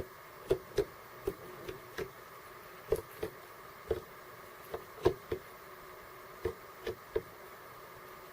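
Small birds pecking at seeds on a hard surface close to the microphone: irregular sharp taps, roughly two a second, some in quick pairs.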